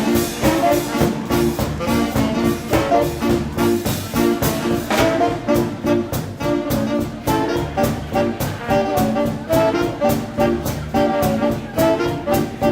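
Live swing band playing an instrumental passage: brass horns over a driving drum beat.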